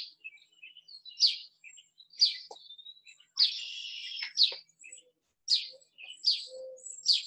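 Songbirds chirping: short high chirps about once a second, with a longer buzzy trill about three and a half seconds in.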